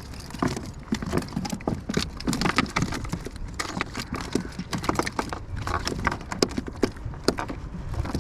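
Irregular knocks, taps and thuds on a plastic kayak hull and deck, several a second, as a catch is handled aboard.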